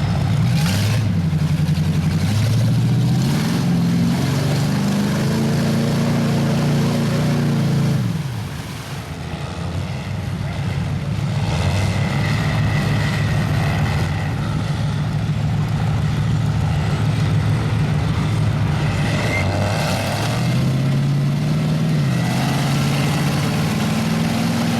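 Mud truck engine revving hard, climbing in steps, dropping off sharply about eight seconds in, running steadily at a lower pitch, then climbing again near the end.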